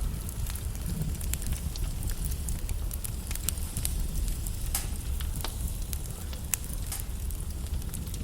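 Wood logs burning in a fireplace, crackling with frequent irregular sharp pops over a steady low rumble.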